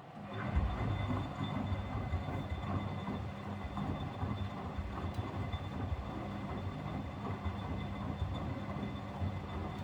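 Miele W761 washing machine's drum motor starting up about half a second in and turning the drum through its wash cycle: a steady rumble with a low motor hum and a faint high whine.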